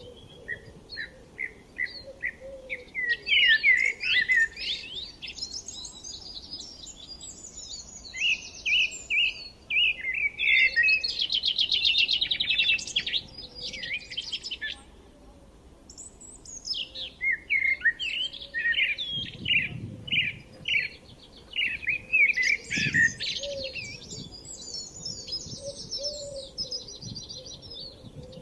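Several songbirds singing and chirping at once, with overlapping phrases of quick repeated chirps and a rapid trill about halfway through.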